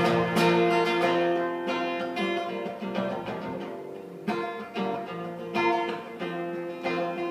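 Acoustic guitar playing strummed chords with no singing, the sound dying away over the first few seconds before fresh strums come in.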